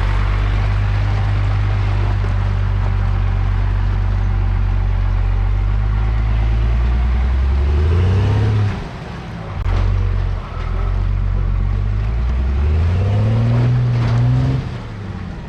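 Off-road vehicle engine running steadily under load, then revved up twice, rising in pitch each time before dropping off suddenly: throttle bursts to climb an obstacle on a snowy trail.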